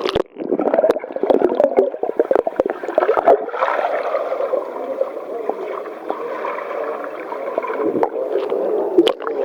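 Kayak splashing and capsizing in a swimming pool during a roll attempt: a dense run of splashes and knocks on the water for the first three seconds or so, then a steady gurgling, bubbling wash of water.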